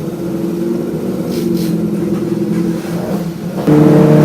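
Hyundai Excel race car's 1.5-litre twin-cam four-cylinder engine running under way, a steady engine note that dips slightly, then gets suddenly louder about three and a half seconds in.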